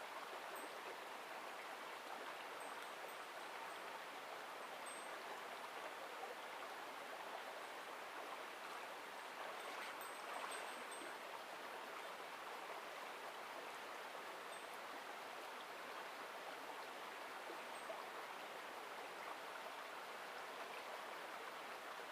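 Small mountain stream flowing, a steady, faint rush of water.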